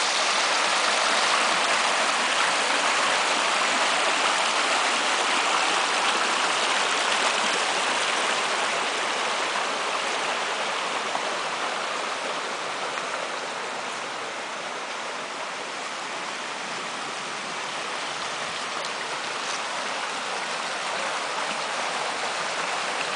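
Small mountain stream rushing and splashing over rocks, its water tumbling through a run and plunge pools of placed rock and wood. The rushing is steady, a little louder in the first half and easing slightly past the middle.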